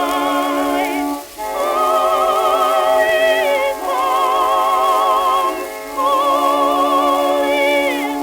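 Music played from an early shellac phonograph record: a wavering melody with strong vibrato over a steady held low note, breaking off briefly about a second in and again near six seconds. The sound is thin and narrow, as on acoustic-era recordings.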